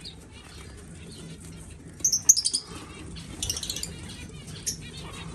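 Small birds chirping in short high bursts, a loud cluster about two seconds in, another shortly after the middle and a single chirp near the end.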